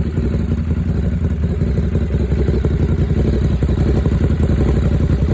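2017 Ducati SuperSport's 937 cc L-twin engine idling steadily through an aftermarket Werkes slip-on exhaust, a fast, even pulsing note.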